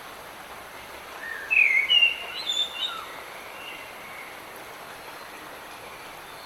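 Steady hiss of light rain, with a bird singing one short run of quick chirping notes about a second in, lasting about two seconds.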